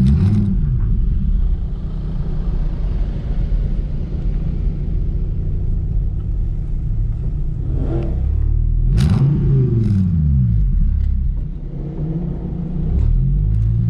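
Dodge Viper SRT's 8.4-litre V10 running at low revs under light throttle, heard from inside the cabin. The revs rise and fall a few times, most clearly in a swell and drop about two-thirds of the way in.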